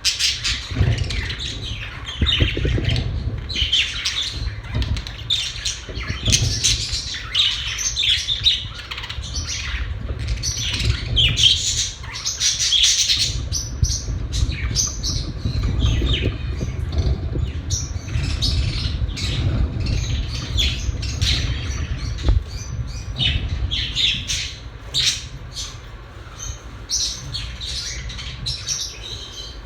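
Pet budgerigars chirping and chattering continuously, many short high calls overlapping, over a steady low rumble.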